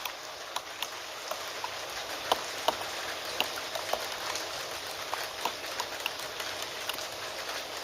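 Steady rain falling, with irregular clicks of keys being typed on a computer keyboard over it, a few keystrokes a second.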